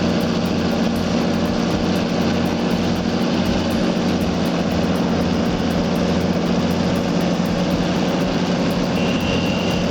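Heavy diesel engine of earthmoving equipment running steadily, with a short high-pitched beep near the end.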